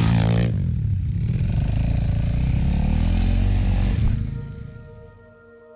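Enduro motorcycle engine running, its pitch dropping as the throttle closes at the start, then steady before fading away about four seconds in. A few sustained musical tones come in near the end.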